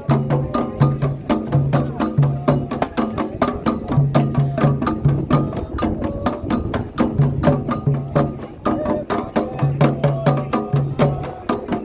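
Candomblé toque on atabaque hand drums: a fast, steady rhythm of sharp strikes over a repeating pattern of deep drum notes.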